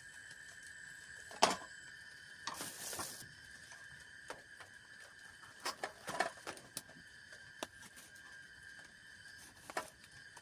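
Scattered clicks and taps, one sharp knock about a second and a half in and a brief rustle shortly after, over a steady high-pitched hum.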